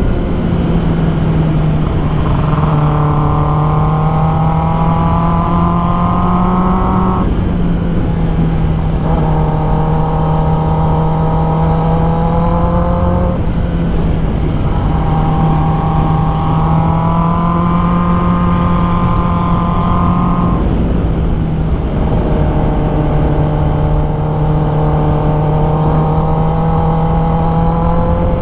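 Kawasaki ZX-10R inline-four engine running at road speed. Its higher tones come in four long stretches, each rising slowly in pitch, with short breaks between them, over a steady low hum.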